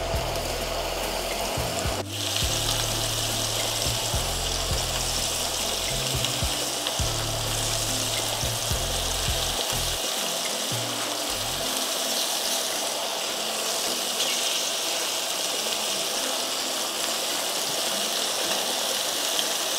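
Shrimp frying in hot oil in a skillet: a steady sizzle.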